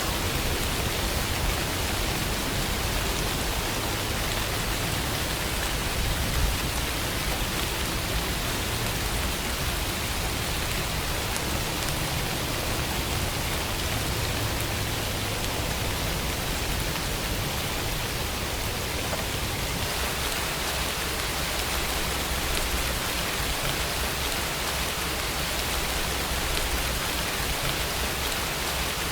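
Steady rainfall, an even hiss of rain with a faint patter of drops.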